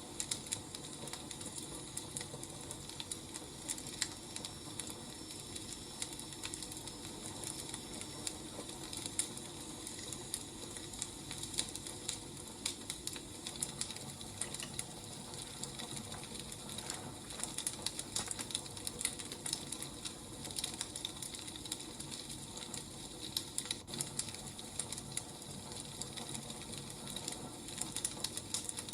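Wood fire crackling, irregular sharp pops and snaps over a steady soft hiss.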